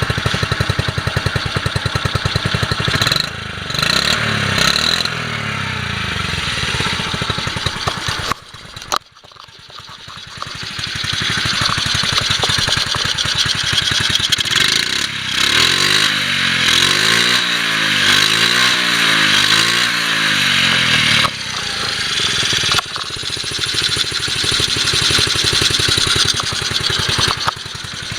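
Honda Super Cub 50's swapped-in 12V C50E four-stroke single-cylinder engine running. The sound drops away briefly about nine seconds in and builds back up. Between about sixteen and twenty-one seconds it is revved up and down several times in quick succession, then it settles back to running.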